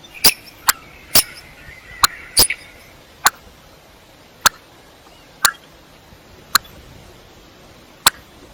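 Common coot giving short, sharp single calls, about eleven of them at irregular intervals, with a faint chatter behind the first few.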